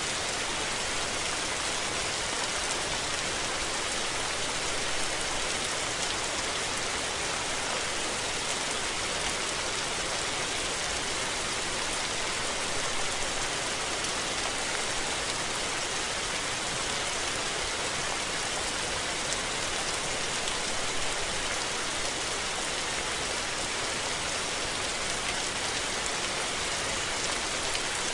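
Steady rain falling on surfaces, a constant even hiss of many drops with no let-up.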